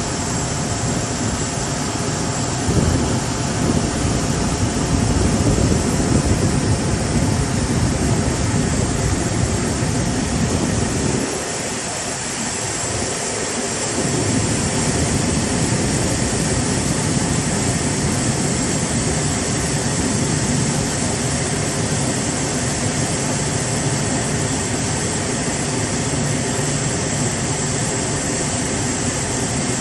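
Jet airliner engines running: a steady rushing noise with a thin high whine. The low rumble thins out briefly about twelve seconds in.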